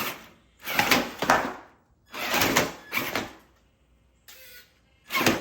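Traxxas TRX4 RC crawler on box-fan-blade wheels, gunned in several throttle bursts of about a second each: a rushing, scraping noise as the motor strains against the oversized wheels.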